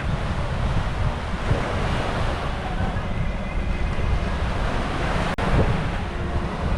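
Waves washing onto a beach, with wind buffeting the microphone as a steady low rumble.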